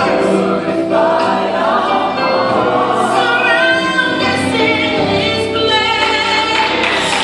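Gospel song with choir and female lead vocals over sustained keyboard chords and bass.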